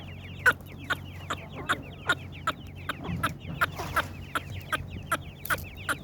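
Teetar (partridge) chicks cheeping: a dense, continuous run of short, high, falling peeps. Sharp, loud ticks come at a steady beat of about two and a half a second throughout.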